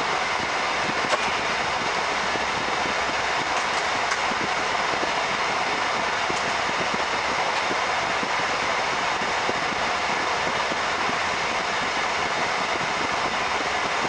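Steady rolling noise of a moving passenger train heard from inside the carriage, the wheels running on the rails, with a few faint clicks.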